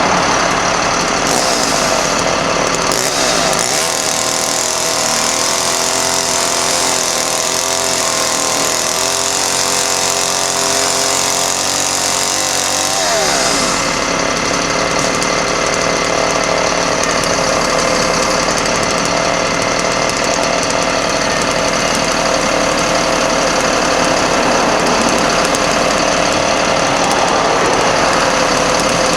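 Caterpillar diesel engine of a 1991 GMC Topkick bucket truck running with a steady clatter. Its tone changes from about three seconds in until about thirteen seconds in, ending with a short glide in pitch.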